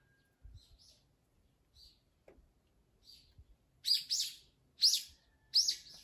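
A bird calling from the trees: a few faint high chirps, then three loud, sharp calls in quick succession near the end.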